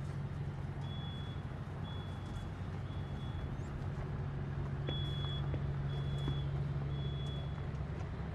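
A vehicle's reversing alarm beeping about once a second, one high tone, over the steady low hum of a running engine.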